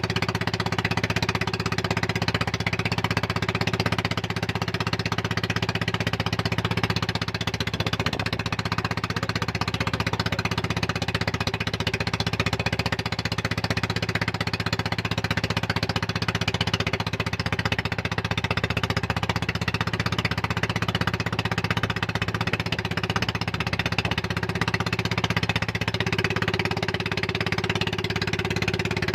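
Boat engine running steadily at a constant speed, a rapid chugging drone, with a slight change in its note near the end.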